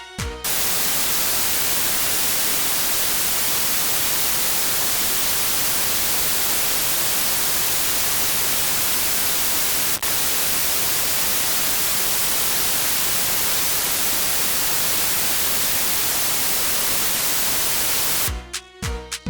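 Loud, steady static hiss like white noise, brightest in the treble, with a momentary break about ten seconds in. Afrobeat music cuts off at the very start and comes back near the end.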